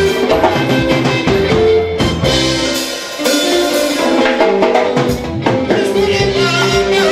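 Live band music with a drum kit keeping the beat under bass and pitched instruments. The bass and drums drop out briefly about three seconds in, then come back.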